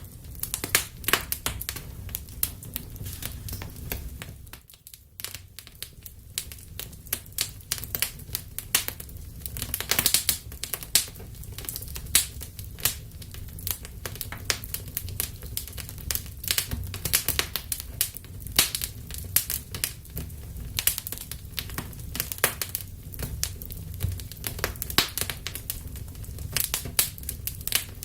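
Wood fire burning in a fireplace: steady low rumble of the flames with dense, irregular crackles and sharp pops, briefly quieter about five seconds in.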